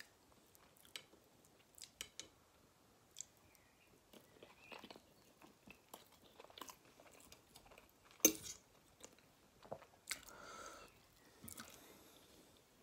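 Quiet, close-miked chewing and mouth sounds of someone eating a boiled new potato and meatloaf, with scattered small clicks. One sharp, louder click comes about eight seconds in.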